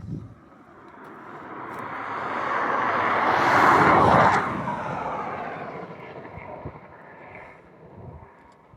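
A vehicle approaching and passing close by: it grows louder to a peak about four seconds in, its pitch drops as it goes past, then it fades away.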